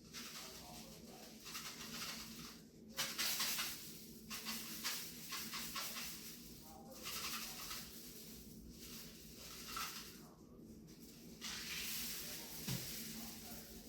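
Homemade rain stick being tipped end over end: its filling pours down inside the tube in a soft rushing trickle imitating rain. The sound comes in about four swells of a few seconds each, with short breaks where the stick is turned over.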